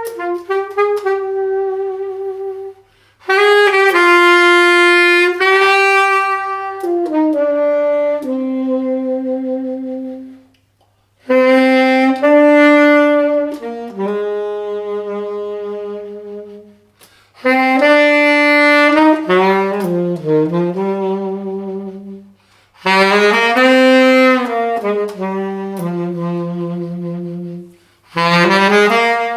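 A solo saxophone playing a slow, unaccompanied melody in phrases of a few seconds each, with short silent breaks between them.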